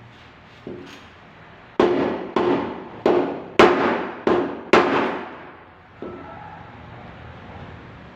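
Sharp hammer taps on a car's sheet-metal body panel during paintless dent repair: a light knock, then six quick, loud taps about half a second apart, each ringing briefly.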